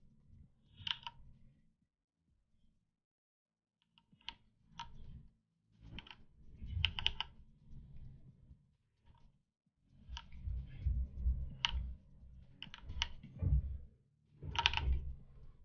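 Scattered, fairly faint clicks of a computer keyboard and mouse, a few at a time with pauses between, over a low rumble that comes and goes.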